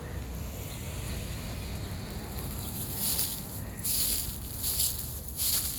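Footsteps scuffing and crunching on the ground while walking outdoors, a short hissy scrape about every second in the second half, over a low steady rumble of wind on the microphone.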